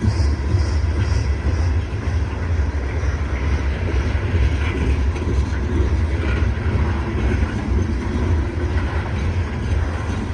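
CSX coal train's cars rolling past, a steady loud rumble of steel wheels on the rails.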